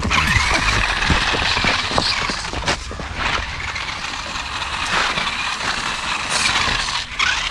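Remote-control toy monster truck driving, its small electric motor giving a steady high whine, with a few sharp knocks along the way.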